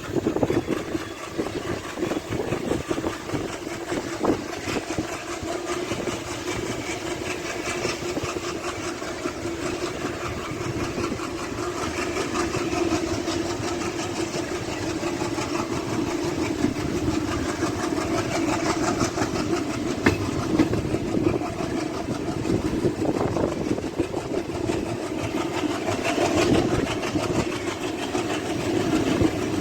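Diesel engine of a DEMU passenger train running steadily, heard from on board.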